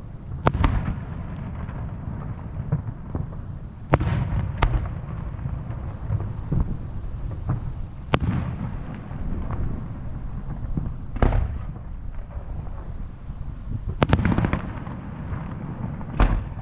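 Aerial fireworks shells bursting: about seven sharp bangs a few seconds apart, some in quick pairs, over a continuous low rumble of booms and echoes.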